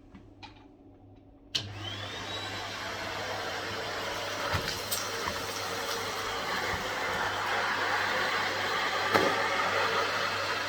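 Numatic NRV 200 bagged cylinder vacuum cleaner switched on about a second and a half in, its motor whining up to speed, then running steadily and slowly getting louder as it vacuums, with a few sharp clicks along the way.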